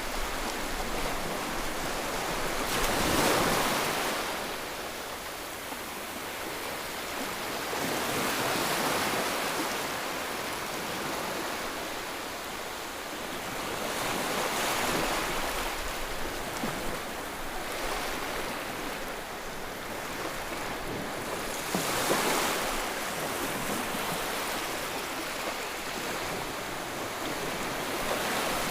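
White noise for soothing a colicky baby: a steady rushing hiss that swells and ebbs every five to seven seconds, like surf.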